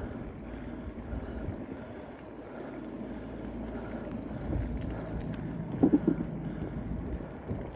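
Wind buffeting the microphone during a wheelie along a wet road, a steady rumbling noise. A few sharp knocks come close together about six seconds in.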